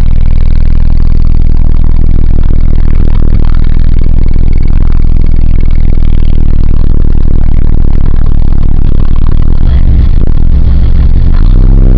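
1998 Nissan Eagle pickup's engine running steadily and very loudly, close to the microphone, with a heavier low rumble from about ten seconds in.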